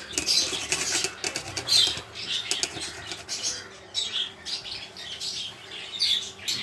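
Carrot being rubbed on a hand grater in irregular rasping strokes, with lovebirds squawking and chirping in the background.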